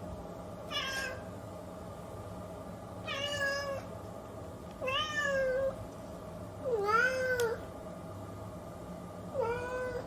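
A cat meowing five times, each meow under a second long and about two seconds apart, over a steady low hum.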